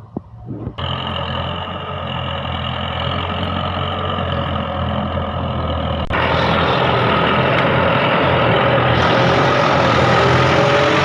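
Tractor engine running steadily after a few knocks in the first second. About six seconds in, it jumps abruptly louder and fuller.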